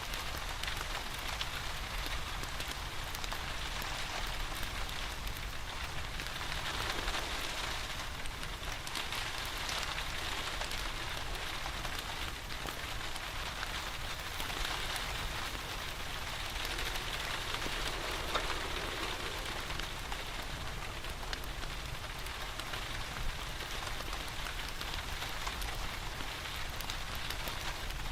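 Steady rain falling, a continuous hiss with a fine patter of drops that swells and eases slightly, with a wood fire in a fireplace crackling beneath it.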